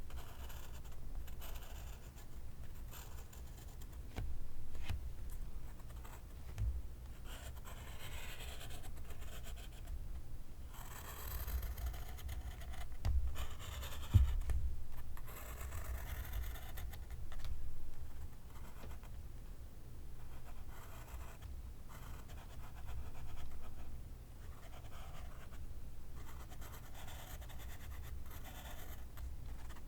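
Pencil scratching across paper in irregular strokes with short pauses, with a few soft knocks, the sharpest about halfway through.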